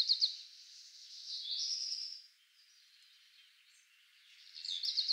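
A bird singing in short, high phrases of quick notes: one at the start, another about a second and a half in, and a third near the end after a quiet gap.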